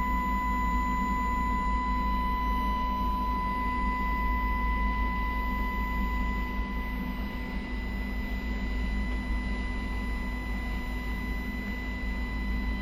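A steady high-pitched tone with a fainter tone an octave above it, over a steady deep rumble.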